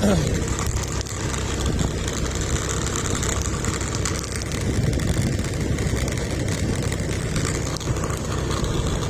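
A vehicle engine running steadily under a continuous rush of road and wind noise.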